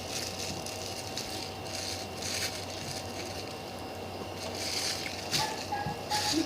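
Hamburger being eaten and handled, giving short scattered rustling and crunch-like noises over a steady background hum.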